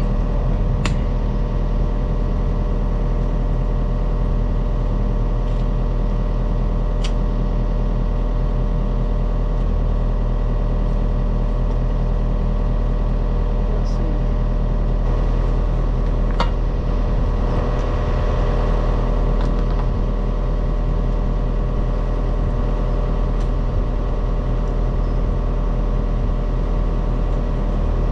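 Diesel engine of a digging machine running steadily under load, with a few sharp clicks on top.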